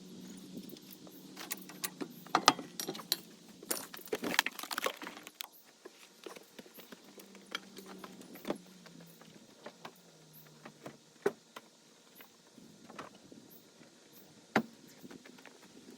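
Small metal parts and hand tools clinking and rattling, a quick flurry of clinks over the first few seconds, then scattered single clicks, as wheels are being taken off a vehicle.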